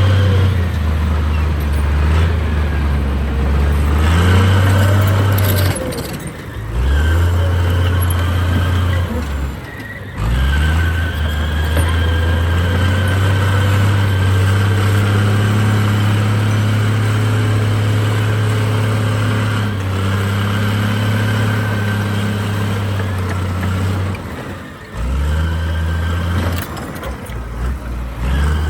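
Heavy diesel engine of earthmoving equipment running steadily under load, with a steady high whine above it. The sound drops out briefly three times, at about six, ten and twenty-five seconds in.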